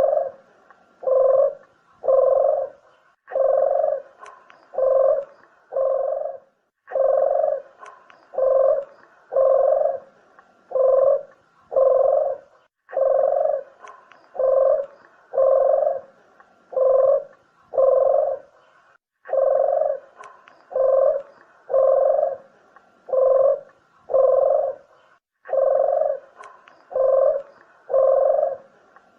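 Puter dove (Barbary dove) cooing: phrases of about five short, low coos, repeated with a brief pause roughly every six seconds. This is a recorded call played as a lure to draw doves in for shooting or trapping.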